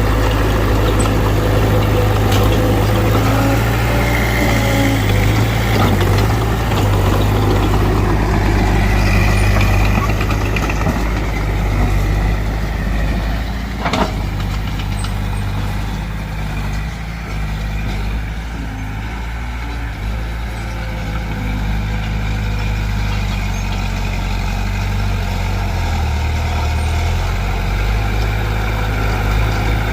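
Heavy diesel engines of a Mitsubishi BD2F bulldozer and a dump truck running steadily as they work soil, with a single sharp knock about halfway through, after which the engines run a little quieter.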